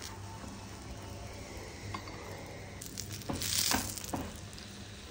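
Oil sizzling under a stuffed potato paratha on a hot tawa, with a few light clicks of a plastic spatula. About three and a half seconds in the sizzling briefly gets louder as the paratha is flipped onto its freshly oiled side.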